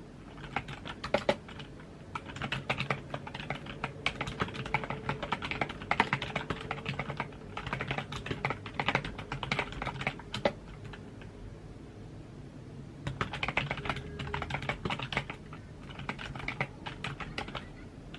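Typing on a computer keyboard: quick runs of key clicks in bursts, with a pause of a couple of seconds in the middle before the typing resumes.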